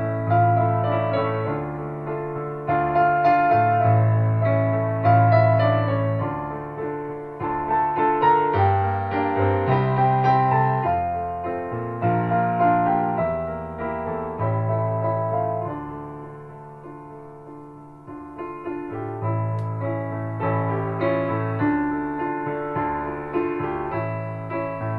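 Soft piano music with a slow, repeating bass line, dipping quieter for a moment past the middle before building again.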